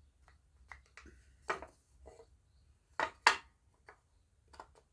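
Solid walnut drawer pieces knocking and clicking together as the drawer front is pushed into place. A few sharp wooden knocks with light ticks between them; the loudest is a pair in quick succession about three seconds in.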